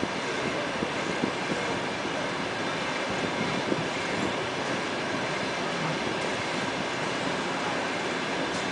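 Passenger train pulling slowly out of a station, heard from a coach window: the steady rumble and rattle of its wheels on the rails, with a few light knocks in the first four seconds.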